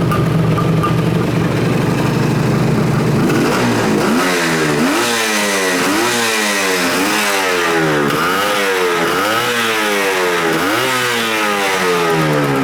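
Suzuki GT550 air-cooled two-stroke inline-three engine idling, then revved in about half a dozen quick throttle blips roughly one a second before easing back toward idle near the end. It picks up revs cleanly, the sign of an engine in good running order.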